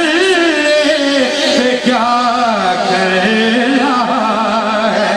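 Male voice singing a manqabat in long, held melismatic phrases, the pitch wavering and gliding between notes.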